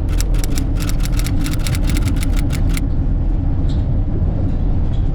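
Steady low road and engine rumble from inside a moving vehicle, with a quick run of sharp clicks, about seven a second, for the first three seconds.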